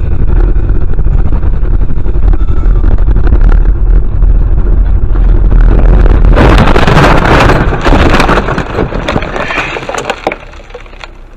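Heavy low road rumble of a vehicle heard through a dashcam microphone. About six seconds in comes a loud crunching impact of a car crash lasting a second or two. Scattered cracks and rattles follow and die away.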